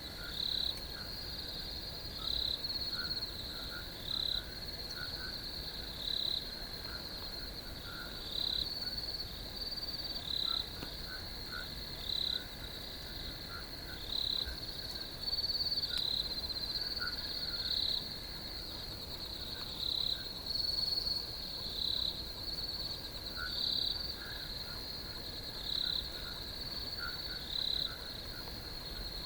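Crickets chirping in chorus: a steady high trill with louder chirps repeating about every second or two, over a fainter, lower pulsing call.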